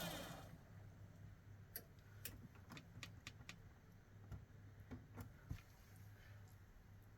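Near silence over a steady low hum, with about ten faint, irregular sharp clicks in the middle of the stretch.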